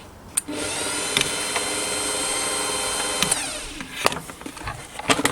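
Kenwood Chef Elite KVC51 stand mixer motor running steadily with a whine, its pitch shifting as the speed changes, then winding down about four seconds in, followed by a few clicks. It is running on a newly fitted speed controller that now works: the mixer is fixed.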